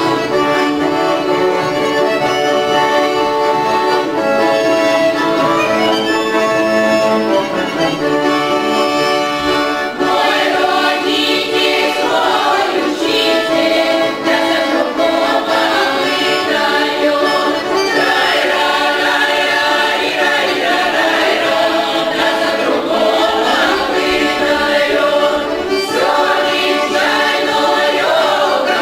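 Accordion playing a Russian folk song melody, joined about ten seconds in by a folk choir singing over it.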